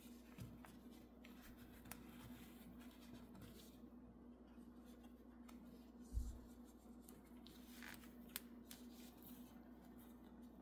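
Near silence with faint handling sounds: scattered light clicks and rustles, a low thump about six seconds in, and a sharp tick about eight seconds in.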